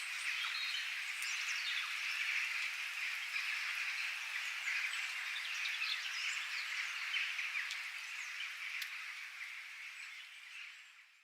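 Nature ambience: a dense, steady chorus of small chirping calls, with brief bird chirps above it. It fades out near the end.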